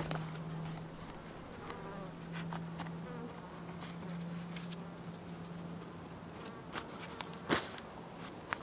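A flying insect buzzing with a steady low hum that fades out about six seconds in, followed by a few sharp clicks or snaps, the loudest about seven and a half seconds in.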